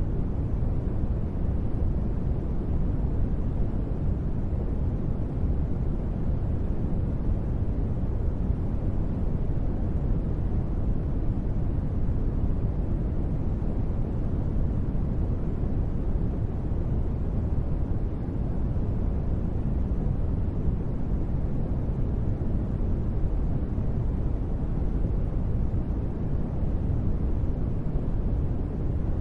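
Steady, unbroken ambient noise with a deep rumble, weighted toward the low end, with no tones, rhythm or separate events: a space-ambience noise bed.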